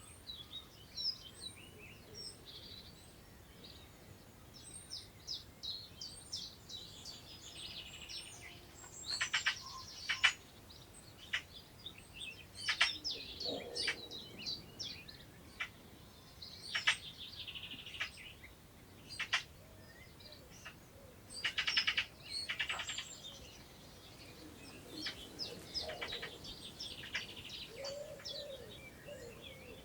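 Several songbirds singing over one another in the open countryside: high, varied phrases and quick, rattling trills. Near the end a pigeon starts cooing low underneath them.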